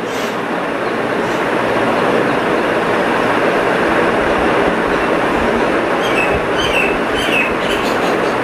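Train passing: a loud, steady rush of wheels on rails that builds over the first two seconds and then holds, with a few short high squeaks near the end.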